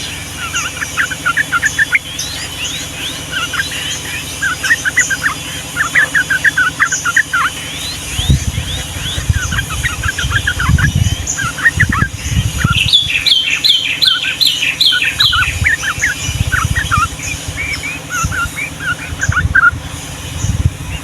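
Yellow-vented bulbul singing, a rapid bubbling chatter of short notes with a fast run of repeated notes about two-thirds of the way through, used as a master and lure song for young bulbuls. Low thumps sound under it from a little before halfway on.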